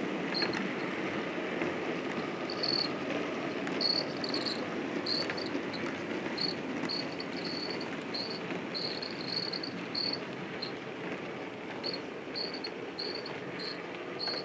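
Model train running along the layout's track: a steady rumbling with short high-pitched chirps coming through irregularly, several a second in places.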